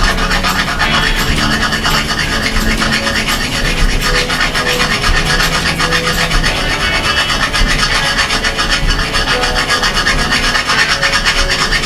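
A small hand file rubbing back and forth over a scratched mountain bike fork stanchion in quick, steady strokes, knocking down the raised burrs around the gouges.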